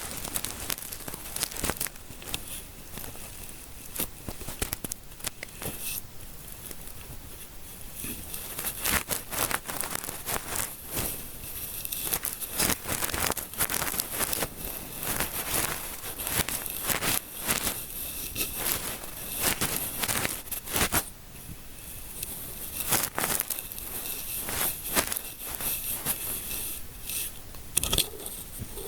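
Close-miked crackling and rustling of fingers scratching and rubbing through hair in a scalp massage: a dense, irregular stream of small crackles and scratches.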